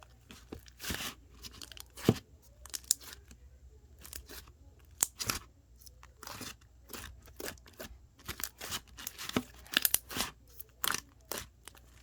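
Slime being worked by hand: an irregular run of sharp crackling pops, clicks and short squishes, some louder than others.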